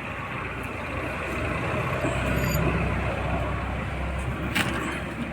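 Motor vehicle rumble that swells and fades over a few seconds, as of a vehicle going past, with one sharp click near the end.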